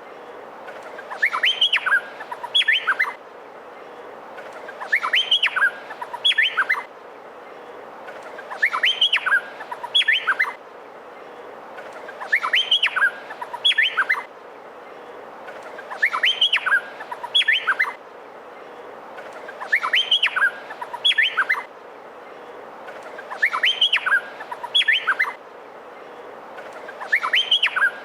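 Male Meliphaga honeyeater (cucak pantai) singing a short phrase of quick, sharp whistled notes that sweep up and down, repeated about every three and a half to four seconds.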